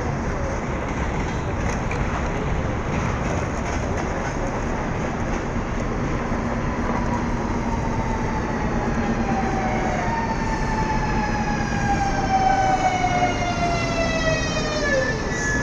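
ES2G Lastochka electric multiple unit braking into the station: steady rolling noise of the train, with its traction motor whine gliding down in pitch over the second half as it slows.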